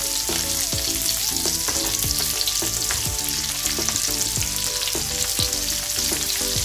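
Chopped onion sizzling steadily in hot oil in a wok with fried prawns, the oil spitting as the onion goes in.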